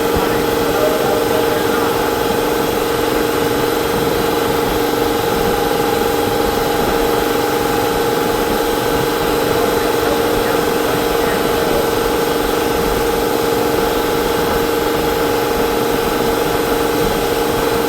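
A steady machine drone with a strong constant hum and a hiss of moving air, unchanging throughout.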